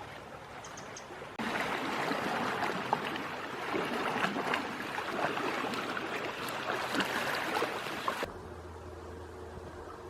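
Moving water washing and trickling, with small splashes, that starts abruptly about a second and a half in and cuts off about eight seconds in. A quieter low steady hum follows.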